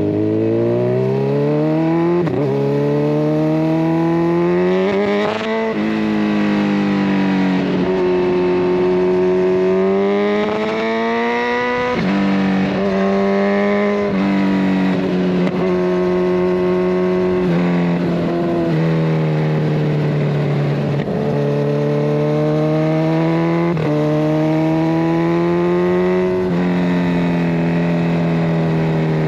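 Kawasaki Ninja 1000SX inline-four with a de-cat and a Scorpion Red Power exhaust, accelerating hard through the gears. The pitch rises and drops sharply at each upshift, twice in the first six seconds. It then runs on at a steady road speed, easing off and picking up again with another gear change about twelve seconds in.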